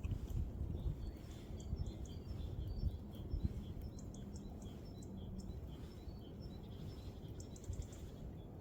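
Small birds chirping again and again, with a quick trill near the end, over an uneven low rumble that is strongest in the first few seconds.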